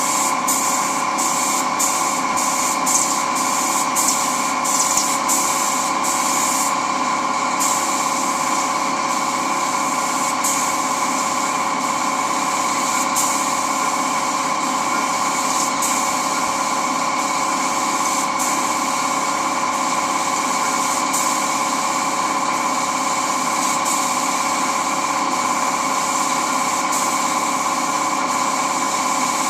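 Air compressor running steadily under a spray gun's high air hiss; the hiss is cut on and off in quick bursts for the first several seconds, then held steady, as clear lacquer is sprayed.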